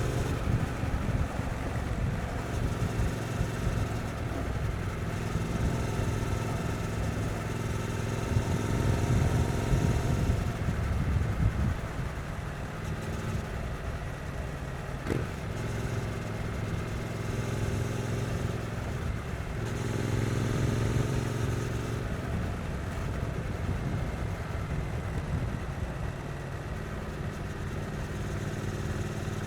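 Triumph Street Twin's 900 cc parallel-twin engine running at gentle city-riding pace, its note stepping up and down several times with throttle and gear changes. A single sharp click about halfway, and a steadier, lower note near the end.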